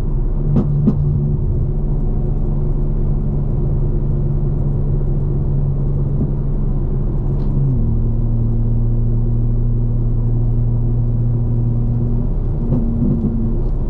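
Straight-piped BMW M4 Competition's twin-turbo inline-six cruising at steady highway revs, a low drone. About eight seconds in the engine note steps down to lower revs. Two light clicks come about a second in.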